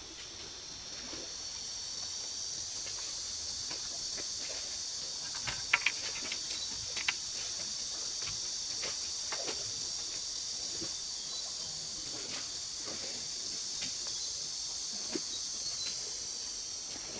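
Steady high-pitched insect chorus, with a few sharp clicks and taps over it; the chorus cuts off suddenly at the end.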